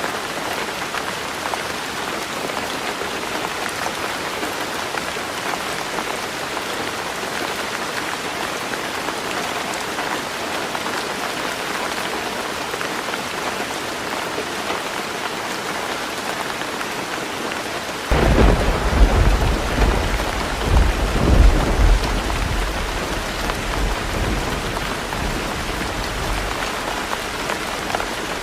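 Heavy rain drumming steadily on a tin roof. About two-thirds of the way through, thunder breaks in suddenly with a loud, deep rumble that surges several times and then slowly fades back under the rain.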